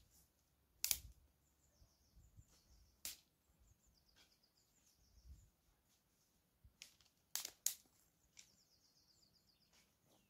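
Faint bird chirps and trills in the background, with a few sharp knocks: one about a second in (the loudest), one around three seconds, and two close together a little after seven seconds.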